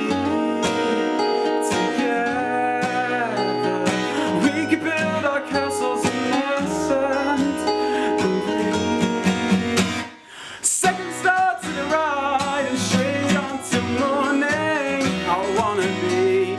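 Acoustic guitar strummed live, with a wavering melody line carried over it. The music drops out briefly about ten seconds in, then comes back with a sharp strum.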